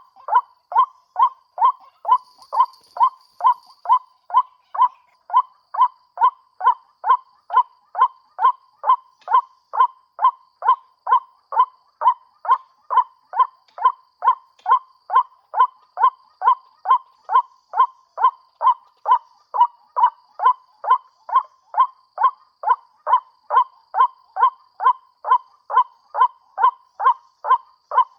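White-breasted waterhen call played from a bird-caller speaker as a lure: one short honking note repeated a little over twice a second, with machine-even spacing and never a break.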